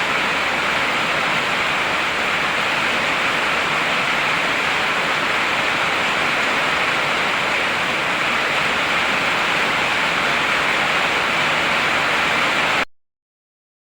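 Heavy rain falling in a steady, dense hiss. About 13 seconds in it cuts off abruptly into silence.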